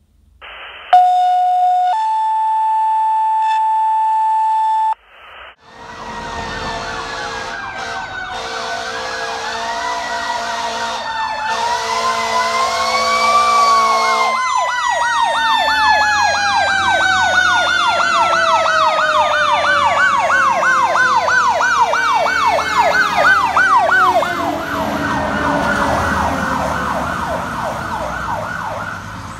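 A fire engine's warning devices responding. A loud steady two-note tone comes first. Then a mechanical siren winds up over several seconds and slowly coasts down, while three long air horn blasts sound during the wind-up and a fast yelping electronic siren takes over.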